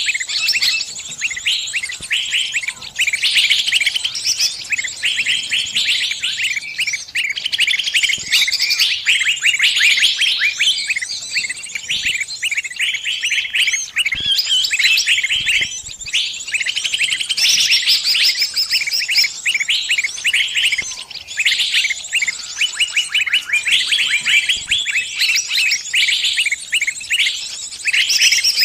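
A small bird's shrill distress calls: rapid, insistent chirps and trills repeated almost without pause, the alarm call of a bird caught and calling other birds for help.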